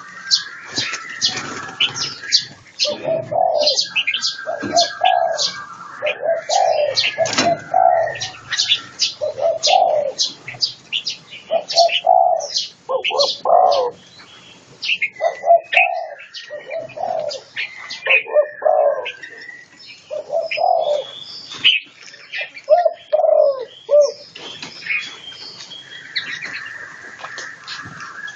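Doves cooing in a repeated series, with smaller songbirds chirping and calling in sharp, high notes over them.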